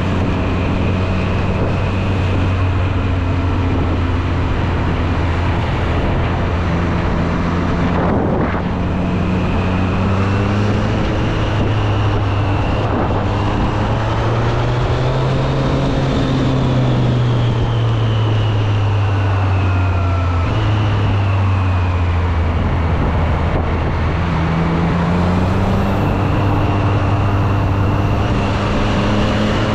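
2024 Triumph Street Triple 765 RS's inline three-cylinder engine running steadily under way. There is a brief break in the engine note about eight seconds in, then a slow rise and fall in pitch in the middle.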